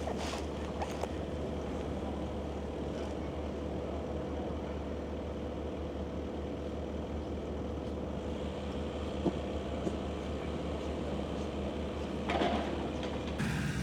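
Steady low rumble of a heritage steam railway train, with a faint steady hum, a few light knocks, and a short louder rattle near the end.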